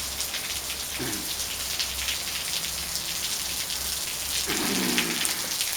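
Steady rain falling, heard from under a covered patio, with many separate drops striking close by.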